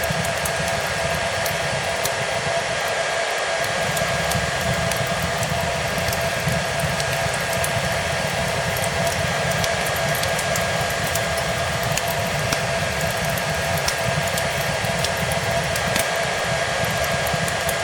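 Hair dryer running steadily: a constant rushing hiss with a steady motor whine. It is mixed with the scattered small crackles and pops of a wood fire.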